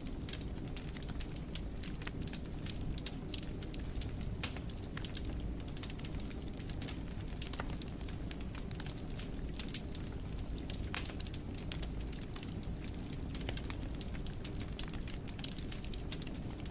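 Wood fire burning in a fireplace, crackling with many irregular sharp pops and snaps over a steady low rumble of flames.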